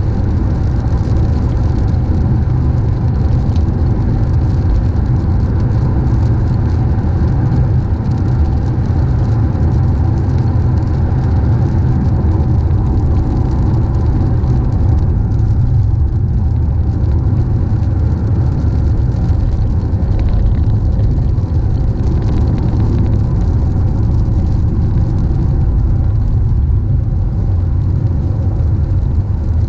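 Steady low rumble of a car driving along the road: tyre and engine noise with no change in pace.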